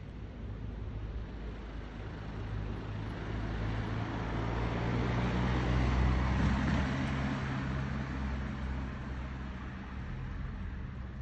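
A motor vehicle passing by on a road: its engine hum and tyre noise build, peak about six seconds in, then fade away.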